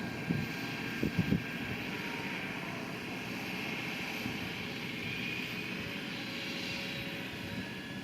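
Engine of heavy earth-moving machinery running steadily, with a few short knocks in the first second and a half.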